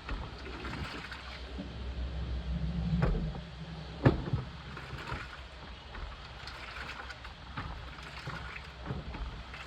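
Washing machine running, its drum turning with a low rumble that swells about three seconds in, and a single sharp knock about four seconds in.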